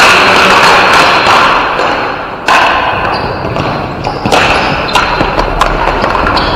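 Ball hockey play: loud thuds and knocks of sticks and ball against the floor and boards, with sudden bursts of noise about two and a half and four seconds in.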